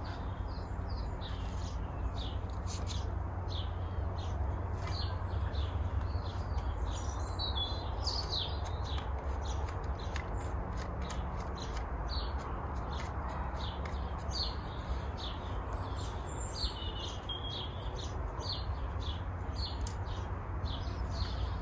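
Small birds chirping and singing, with many short calls over a steady low background rumble.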